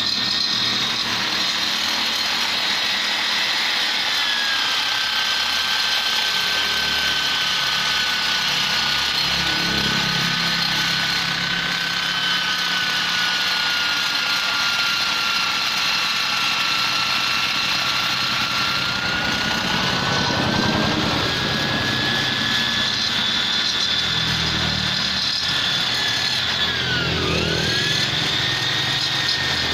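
High-speed rotary grinder with a carbide burr, shaping the ports of a Vespa two-stroke engine. Its whine sags in pitch as the burr bites into the metal about four seconds in and climbs back around twenty seconds. Near the end it dips sharply and briefly under a heavy cut.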